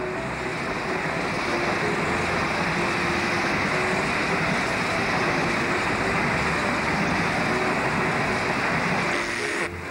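A train passing close by, a steady loud rush of wheels on rails with a few faint brief tones mixed in.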